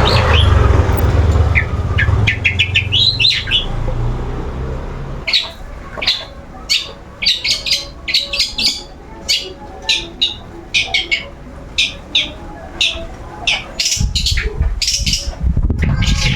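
Long-tailed shrike (cendet) calling in a quick series of short, sharp, high notes, several a second, from about five seconds in. A low rumble lies under the calls at the start and again near the end.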